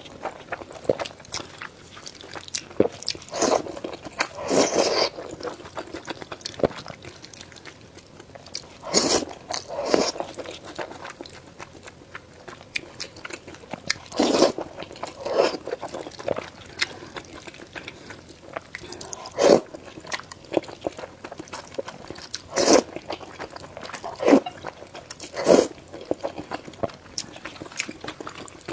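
Close-miked eating for ASMR: a person biting into and chewing food, with louder bites every few seconds and quieter clicky chewing in between.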